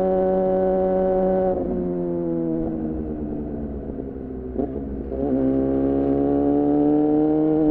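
2014 Yamaha R6's inline-four engine through an R9 titanium muffler and Leovince header, heard from onboard. It holds steady revs, then the throttle closes about one and a half seconds in and the revs fall for about three seconds. After a brief rough patch it pulls steadily back up in revs to the end.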